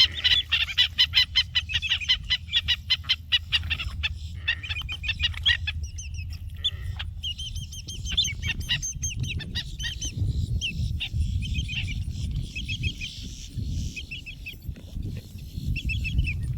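A flock of wading birds squawking constantly. A dense run of rapid calls fills the first four seconds, then thins to scattered, more varied calls over a steady low rumble.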